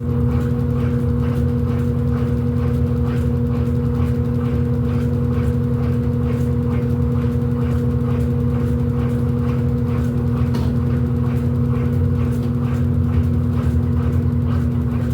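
Electrolux LED14 washing machine running with a steady motor hum and a fast rhythmic pulse of about four beats a second.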